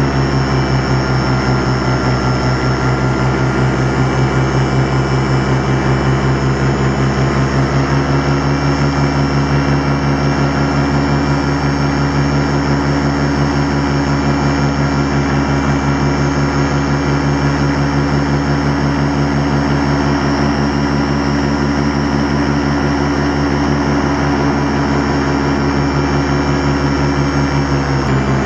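Miniplane Top 80 paramotor, a single-cylinder two-stroke engine driving a propeller, running steadily at constant throttle. The top end is freshly rebuilt and the engine runs smoothly, like new.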